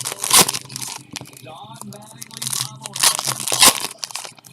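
Foil trading-card pack wrappers being torn open and crinkled by hand, in a few loud bursts.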